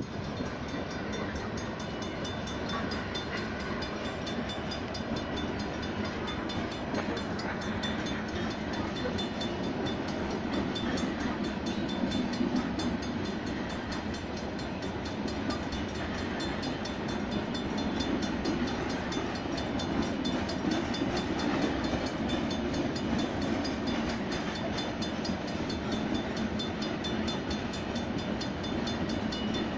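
Freight train cars rolling steadily past on the rails, their wheels making a continuous, even noise.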